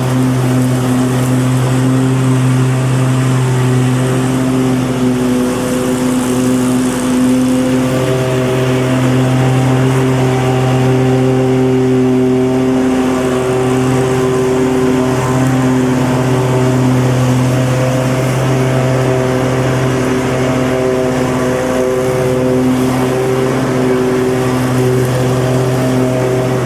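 Petrol lawn mower engine running steadily at a constant speed, its pitch wavering only slightly.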